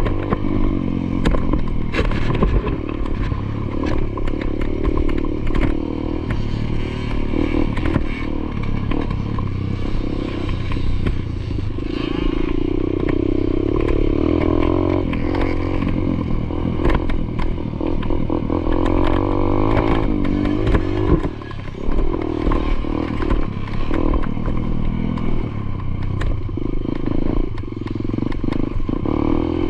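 Motocross dirt bike engine revving up and down as it is ridden around a track, the throttle chopped briefly about two-thirds of the way through, with frequent clattering knocks over the rough ground.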